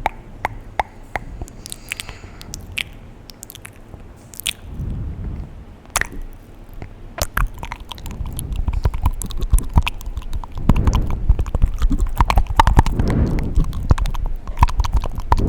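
Close-miked ASMR mouth sounds: wet clicks, smacks and tongue pops, growing louder and denser about halfway through.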